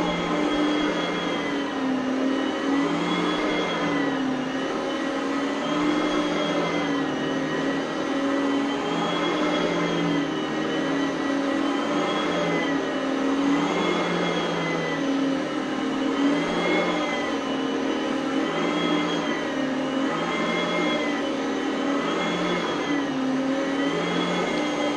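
Oreck Elevate Conquer upright vacuum cleaner running on carpet, a loud steady motor whine. Its pitch dips and rises regularly, about once every second and a half.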